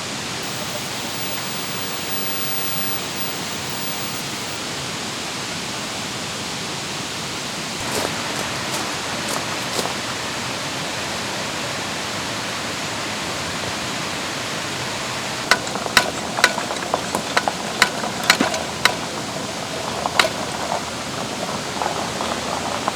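Mountain valley stream rushing steadily over rocks. From about fifteen seconds in, a run of sharp clicks and knocks sounds over it.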